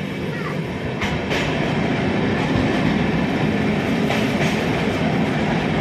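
Passenger train running on the rails: a steady rumble with the clicks of the wheels going over rail joints, getting a little louder about a second in.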